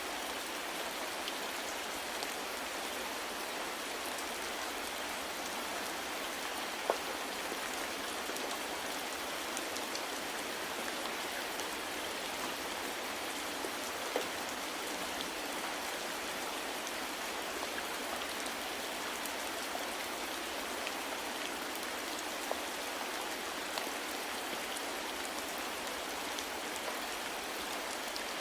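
Steady soft rain, an even hiss with scattered individual drops ticking on a surface, a couple of them a little louder.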